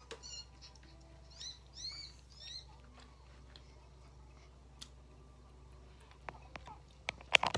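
A few short, high, bird-like chirps early on, then crisp crunching as fried chicken is bitten and chewed, the loudest cracks just before the end.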